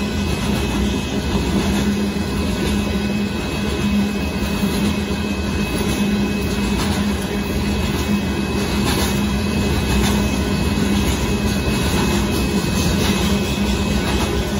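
Loaded gravel hopper cars of a freight train rolling past over a road crossing, a steady, unbroken rumble of wheels on rail, with a steady low tone beneath it.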